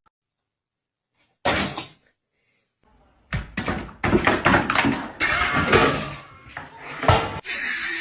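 A brief burst of noise, then a run of knocks, thuds and clatter, with the sharpest bang about seven seconds in. It gives way to a steady hiss near the end.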